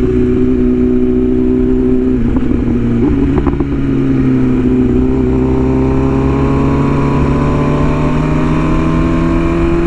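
BMW S1000RR inline-four motorcycle engine under way, with wind rushing past. About three seconds in it changes note, then pulls hard with its pitch climbing steadily.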